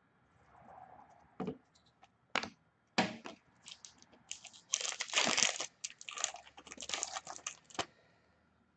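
Trading-card pack wrapper and cards being handled: a few sharp clicks and taps, then a long stretch of crinkling and tearing, loudest about five seconds in, as a pack is torn open.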